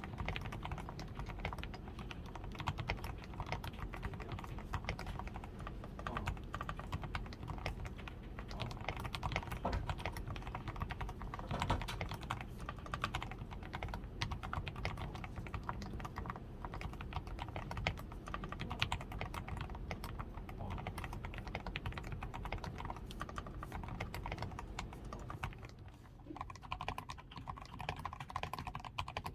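Steady, fast typing on a DAREU A87 Pro mechanical keyboard fully lubed with Krytox 105, with a taped PCB, foam-reinforced switches, lubed stabilizers and XDA keycaps: a dense run of keystrokes. The keystrokes thin out for a moment near the end, then carry on.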